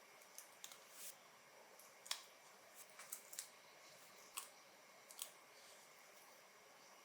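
Faint, irregular sharp clicks and ticks, about a dozen, from small parts being handled; the sharpest come about two seconds in and again near four and a half seconds.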